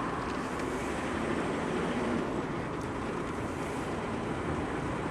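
Car engine and tyre noise while driving, a steady even rumble with no distinct events.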